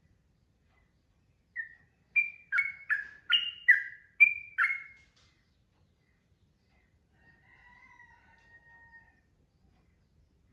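Yellow-vented bulbul (trucukan) singing: one short note, then a quick run of about eight loud, falling notes, followed by a faint drawn-out call near the end.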